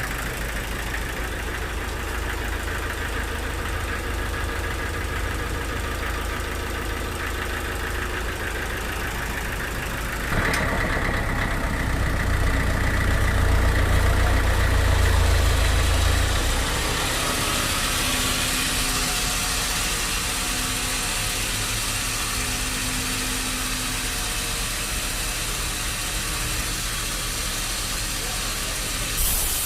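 Sawmill machinery running steadily with a low engine hum. About a third of the way in it suddenly grows louder and deeper for several seconds, then settles into a steady run with more hiss.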